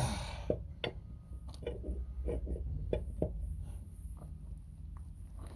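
A loud clatter at the start, then a string of short knocks and clicks from tools and wheel parts being handled during a tire change.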